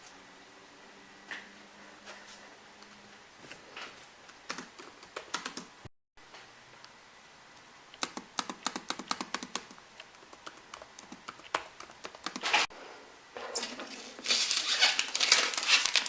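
Keys being typed and tapped on a laptop keyboard: irregular clicks, briefly cut off about six seconds in, with a denser, louder run of clatter near the end.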